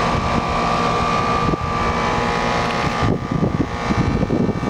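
Outdoor Carrier heat pump/air-conditioner unit running: a steady, sort of noisy hum of the condenser fan and compressor with a steady whine held through it.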